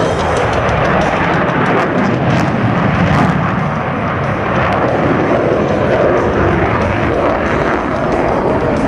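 F/A-18 Hornet fighter's twin jet engines in flight: a loud, steady rush of jet noise.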